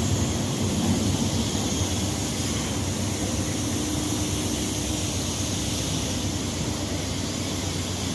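Class 43 HST power car's diesel engine running with a steady hum as the train slows through the station, the sound easing off gradually.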